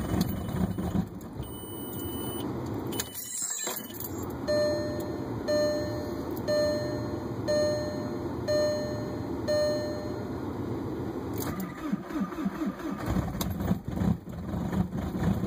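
2004 VW Jetta TDI's 1.9-litre four-cylinder turbodiesel cranking and running unevenly on a cold start, with a brief drop-out about three seconds in. In the middle, a short warning chime beeps six times, about once a second.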